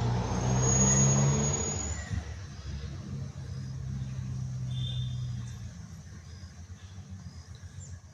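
Diesel locomotive engine running with a steady low hum, loudest in the first two seconds, when a thin high-pitched squeal also sounds, then settling somewhat quieter.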